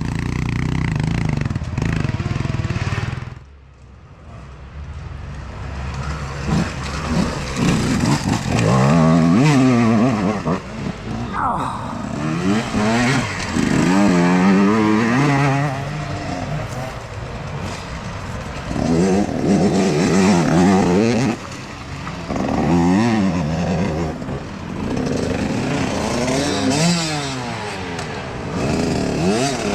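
Youth dirt bike engines revving up and down as bikes ride by, the pitch rising and falling again and again. There is a short quieter moment near the start.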